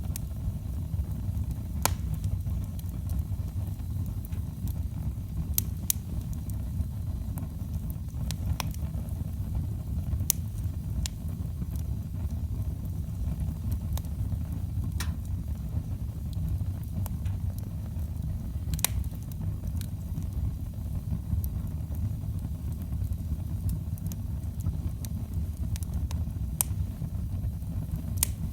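Wood fire burning in a fireplace: a steady low rumble of the flames, with sharp crackles and pops from the burning logs at irregular intervals every few seconds.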